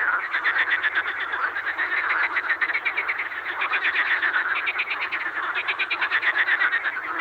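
Frogs croaking: a continuous run of rapid pulsed calls.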